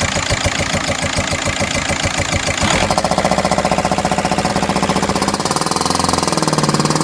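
Volkswagen Golf Mk5 engine running with a loud rhythmic noise that its owner hears whether the engine is hot or cold and that goes away after two to three minutes of running; the owner does not know its cause. About three seconds in the rhythm becomes faster and denser.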